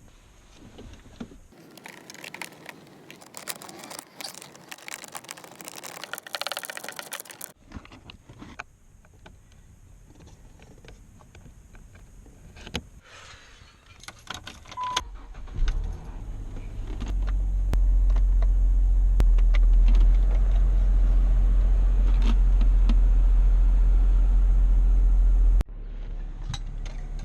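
Clicks and rattles of handling keys and parts in a Dodge Charger, then a steady low rumble that builds up about halfway through, runs loud and cuts off suddenly near the end: the car running.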